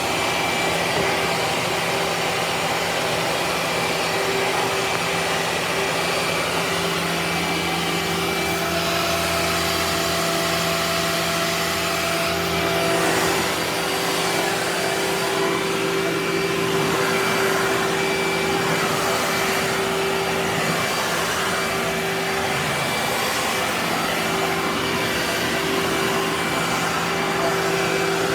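Vacuum cleaner motor running steadily, a constant hum and whine over airflow noise, its tone shifting slightly a couple of times.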